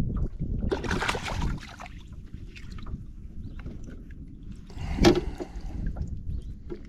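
Wind rumbling on the microphone aboard a small boat, with a short noisy rush about a second in and a sharper, louder burst about five seconds in.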